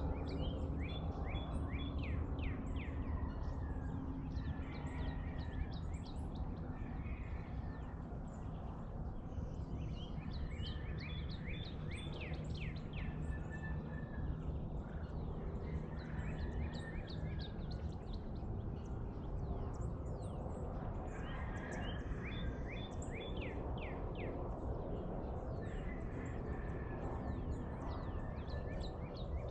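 Dawn bird song: a songbird repeats phrases of quick, sharply falling whistled notes, each phrase about three seconds long and coming back roughly every ten seconds. Under it runs a steady low hum.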